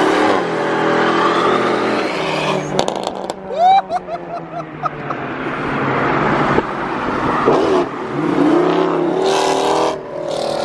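Vehicle engine running and revving, its pitch rising and falling, with brief gliding squeal-like tones twice.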